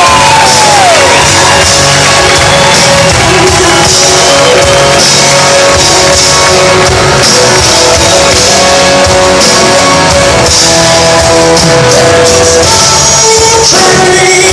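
Live blues-rock band playing loudly: electric guitar over a steady drum beat and bass, with a bent guitar note sliding up and back down at the start.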